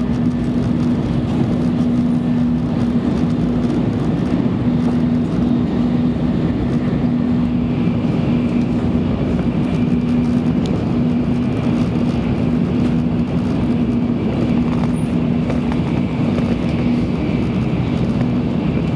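Running noise of an N700-series Shinkansen heard inside the passenger cabin: a steady rumble with a constant low hum, and a faint high whine from about eight seconds in.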